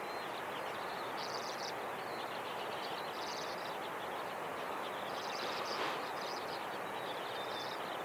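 Steady outdoor hiss of mountain ambience, with short high chirps repeating about every two seconds.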